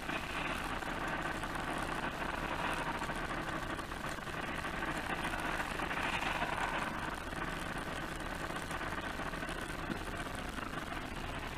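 Steady road-traffic noise of a motor vehicle running, with no crash or impact heard.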